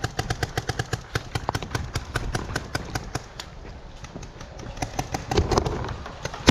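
Paintball markers firing: a rapid, irregular string of sharp pops, several a second, going on without a break.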